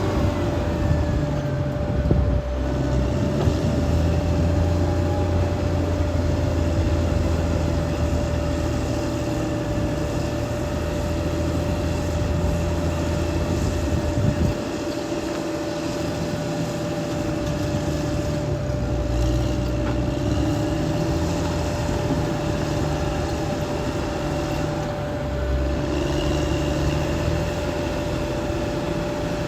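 Caterpillar D6R XL bulldozer working: its diesel engine runs continuously under load with a steady high whine over it. The low engine note eases for a few seconds about halfway through, then picks up again.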